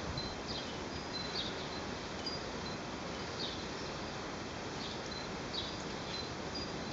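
Outdoor ambience: a steady hiss with short, high bird chirps repeating about once a second.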